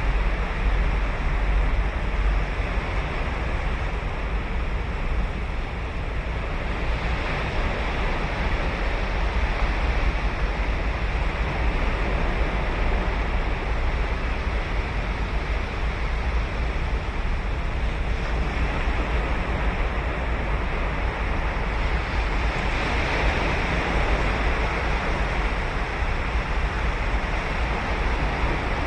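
Ocean surf: waves breaking and washing up the shore in a continuous wash, swelling louder about seven seconds in and again around twenty-three seconds in.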